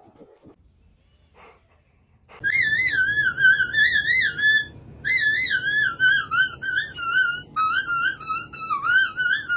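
High, wavering whistle-like tones in three phrases, starting about two and a half seconds in after a quiet start.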